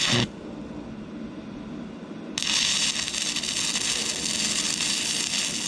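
Stick-welding arc from an inverter arc welder burning a 6011 rod. A brief strike at the start, then about two seconds in the arc catches and runs with a steady loud crackling hiss.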